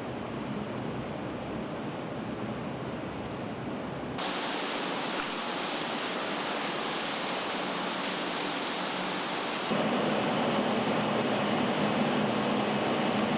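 Steady rushing noise that changes abruptly twice, getting brighter about four seconds in and fuller near ten seconds.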